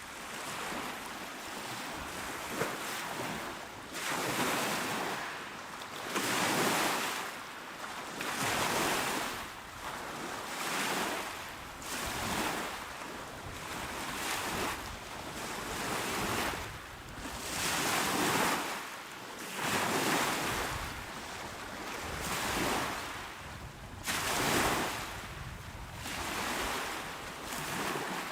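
Calm, small waves breaking and washing onto a shore, each one a rising and falling rush of hiss, repeating about every two seconds.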